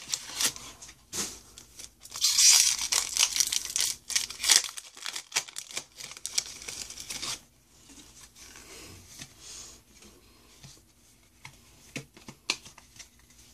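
A foil Pokémon booster pack wrapper being torn open and crinkled, loudest in the first half. Then quieter scattered rustles and light clicks as the cards are slid out and handled.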